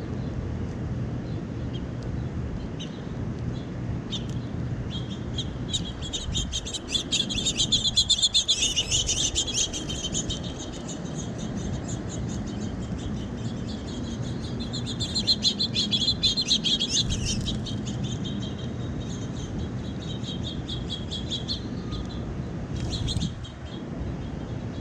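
A group of small birds chirping and chattering in quick bursts, loudest in two spells, over a steady low background rumble.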